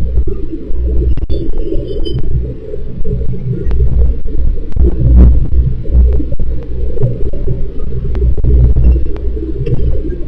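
Wind buffeting the microphone: a loud, unsteady low rumble that swells and dips, with scattered sharp clicks and crackles.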